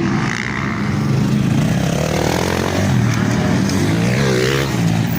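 Motocross motorcycle engines running and revving, the pitch rising and falling as the bikes accelerate and back off.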